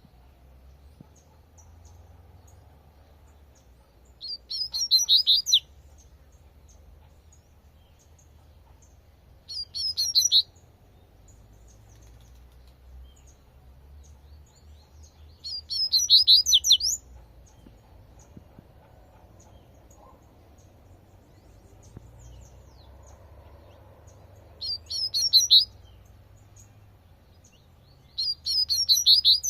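Double-collared seedeater (coleirinho) singing its 'tui tui' song: five short phrases of rapid, high notes, each about a second long, several seconds apart.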